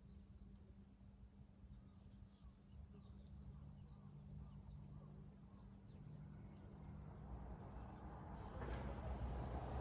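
Quiet outdoor ambience with faint bird chirps, and a low rumble that builds steadily louder over the last few seconds.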